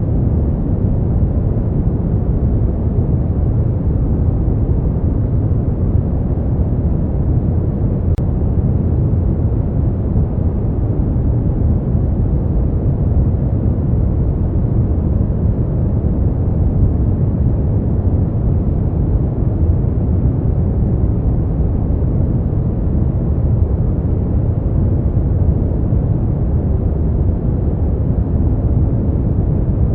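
Steady brown noise: an even, deep rumbling hiss with most of its weight in the low end and little above a few thousand hertz, unchanging throughout.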